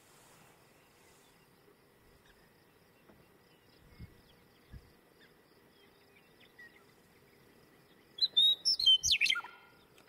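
A songbird singing one short phrase near the end: a few high clear notes, then a quick falling sweep. Before it there is only a faint outdoor background with two soft low thumps.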